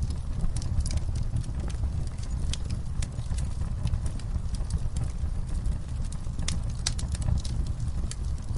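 Wood campfire burning: a steady low rumble of flames with irregular sharp crackles and pops, a few louder snaps about two-thirds of the way in.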